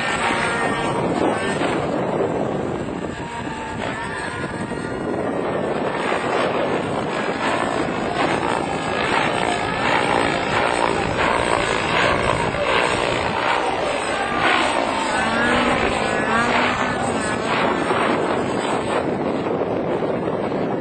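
Helicopter running: steady, loud engine and rotor noise.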